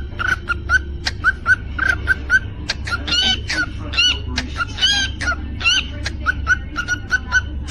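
Cockatiel chirping and whistling: a rapid run of short chirps, several a second, with a few longer warbled whistles in the middle, over a steady low hum.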